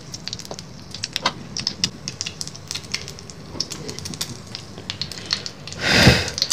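Hot frying oil crackling and popping in a tiny aluminium wok on a small portable gas stove, irregular and steady. About six seconds in comes a short, louder rush of noise.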